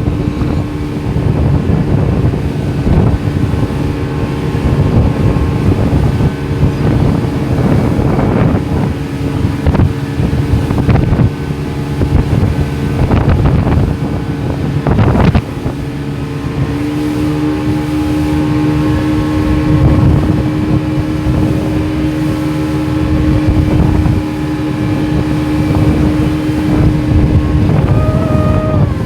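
Motorboat engine running steadily under way, with wind buffeting the microphone and a few sharp knocks about halfway through. The engine note rises slightly a little past the middle.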